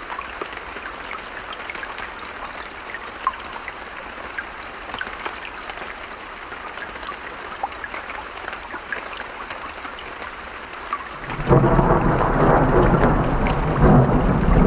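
Steady rain with scattered drop ticks, then a sudden loud rumble of thunder about three quarters of the way through that rolls on to the end.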